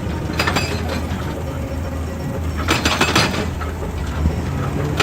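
Excavator diesel engine running steadily while rocks and stones clatter and crack in two bursts, about half a second in and again around three seconds in.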